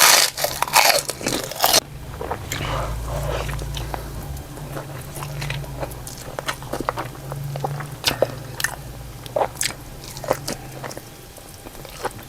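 A person eating close to the microphone: a loud crunchy bite over the first two seconds or so, then chewing with scattered sharp mouth clicks.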